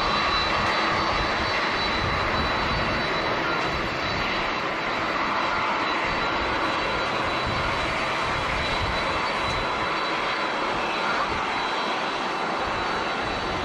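Jet airliner engines running: a steady, even noise with a thin high whine held over it.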